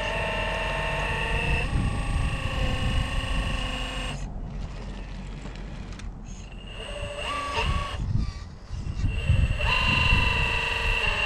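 Electric motor of a scale RC crawler whining as it drives, falling quiet for a few seconds in the middle and starting up again near the end. Wind buffets the microphone with a gusty low rumble throughout.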